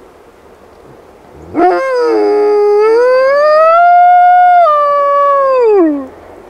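Wolf dog howling: one long howl that swoops up, holds and climbs slowly, then slides down in pitch as it ends.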